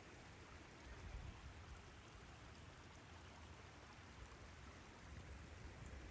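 Faint, steady rush of mountain water.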